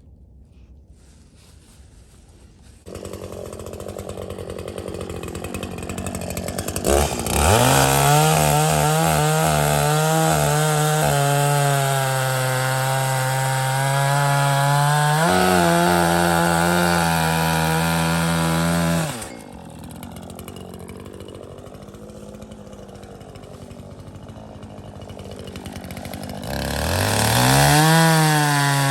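Chainsaw bucking a log: the engine revs up about seven seconds in and holds at high speed while cutting for about twelve seconds. It then drops back to a lower, quieter run and revs up again near the end.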